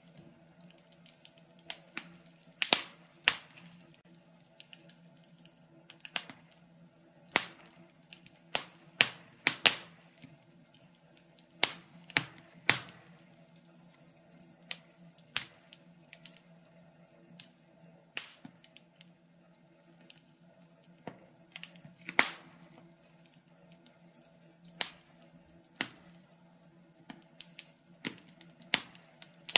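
Wood fire crackling in a fireplace: sharp, irregular pops and snaps, about one or two a second, over a faint steady low hum.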